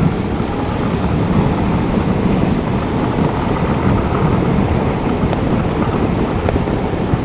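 Steady wind rush and road noise on a motorcycle rider's helmet microphone while riding at speed, with no engine note, and two faint clicks in the second half.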